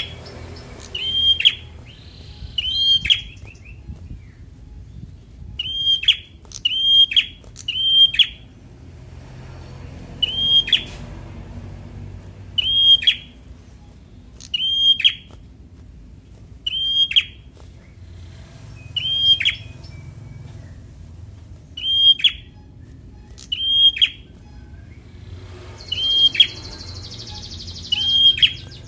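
A prinia (prenjak) repeats a short, sharp call over and over, about every one and a half to two seconds.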